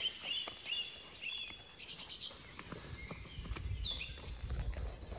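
A small woodland bird singing a run of short, repeated high chirps, then higher notes partway through. Under it, gloved hands scrape and pull at soil and roots, giving short scratchy clicks.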